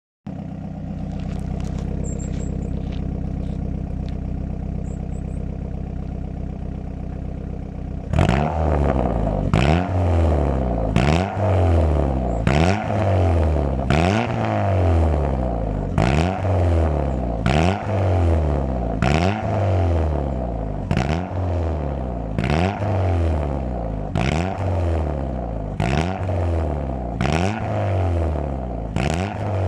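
Ford Zetec four-cylinder engine in a Mk4 Fiesta idling steadily, then, about eight seconds in, revved over and over in quick throttle blips, its pitch rising and falling back roughly once a second.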